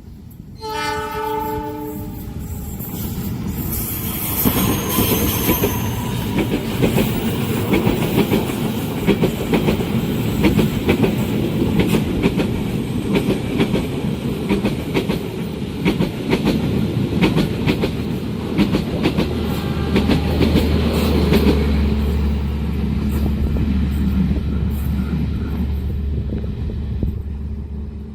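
Indonesian passenger train's diesel locomotive gives a short horn blast, then the train passes at speed. Its wheels clatter over the rail joints for about twenty seconds. A steady low drone comes in during the second half before the sound dies away near the end.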